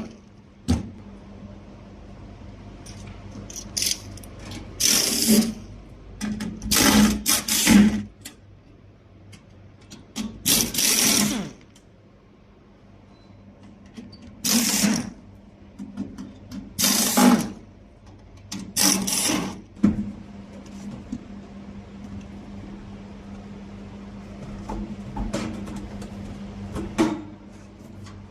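Small fan motor of a 6-tray food dehydrator running with a steady hum. It is broken several times by loud, noisy bursts of about a second each, at irregular intervals.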